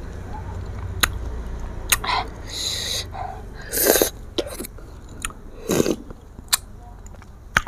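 Close-miked biting and chewing of raw green mango, with several short noisy bites and sharp clicks scattered through, over a low steady hum.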